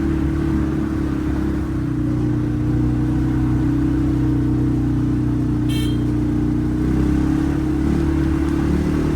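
Quad bike engine running steadily under way, with one brief sharp click a little over halfway through.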